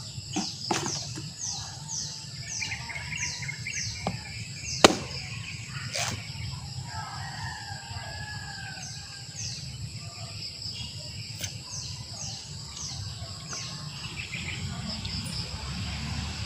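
Backyard birds calling: two runs of quick, falling high notes, each note repeated every half second or so, with other chirps mixed in. A few sharp clicks are heard, the loudest about five seconds in.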